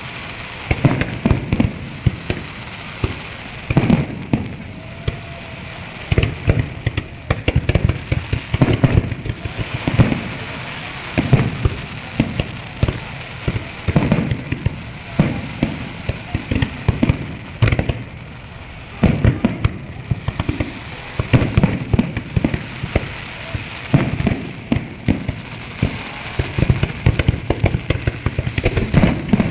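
Fireworks display: a rapid, continuous series of bangs and booms from aerial shells, several a second, over a steady hiss of crackle and crowd noise.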